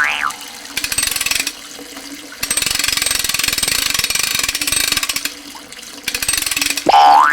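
Rushing water sound effect: a steady hissing, crackling noise that thins out briefly a few times. Near the end a cartoon 'boing' effect sweeps quickly up in pitch and falls back.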